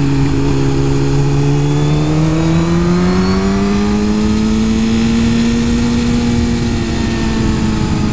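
Suzuki GSX-R 1000 inline-four engine under way, its note climbing gradually as the bike pulls, then holding steady, over steady wind rush.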